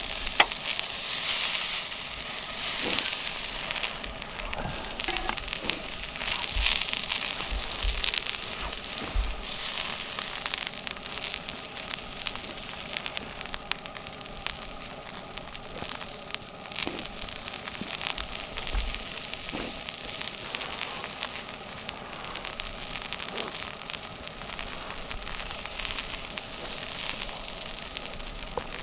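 Steady sizzling from food cooking over a wood campfire, dense with sharp crackles and pops, swelling louder briefly near the start and again around seven to eight seconds in.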